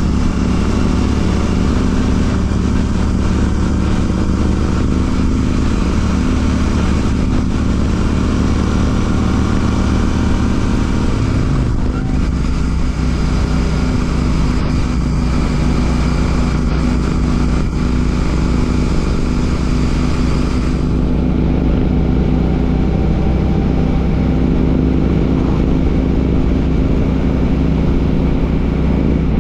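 Royal Enfield Classic 650's parallel-twin engine running through an aftermarket Ngage exhaust while the motorcycle is ridden, steady and loud, with the engine note shifting in pitch about twelve seconds in.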